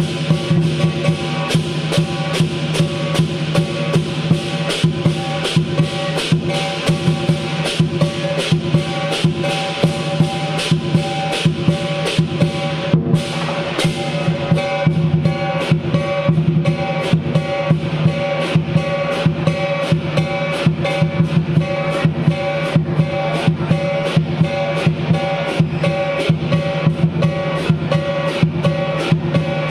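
Lion dance percussion: a drum beaten in a fast, even rhythm of sharp strikes, with ringing cymbals and gong held underneath.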